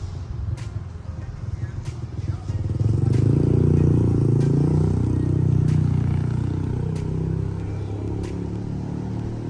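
A motor vehicle's engine running close by, swelling to its loudest about three seconds in and then slowly fading.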